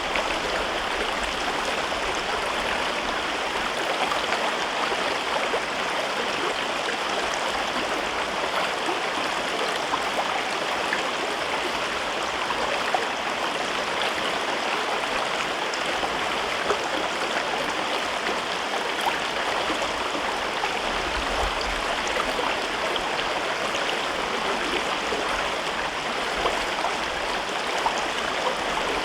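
A river running through a rocky gorge: a steady babble and rush of water.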